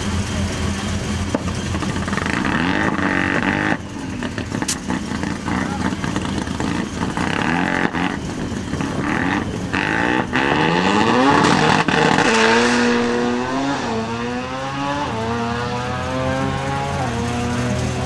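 Car engine accelerating through the gears: its pitch climbs and drops back several times in the second half as it shifts up.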